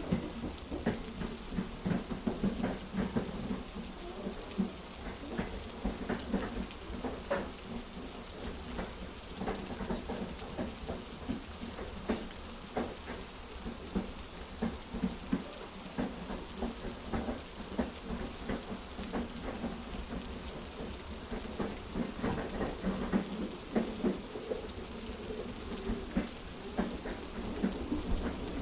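Heavy rain with many small, irregular drop ticks over a low, steady rumble.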